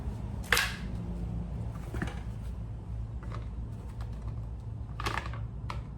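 Scattered short clicks and taps of small plastic parts being handled on a pressure washer under repair, the sharpest about half a second in, over a steady low hum.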